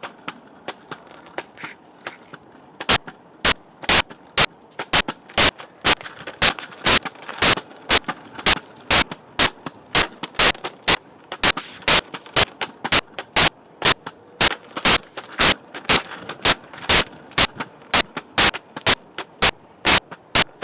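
Sharp knocks repeating at an even walking pace, about two a second, starting about three seconds in: taps and knocks in step with someone walking with the recording phone.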